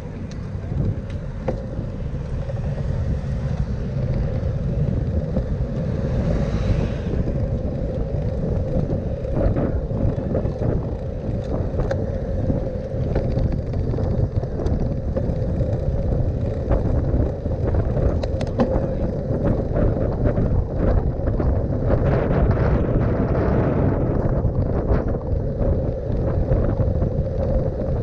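Wind buffeting a microphone carried on a moving bicycle: a steady low rumble with a faint steady hum underneath.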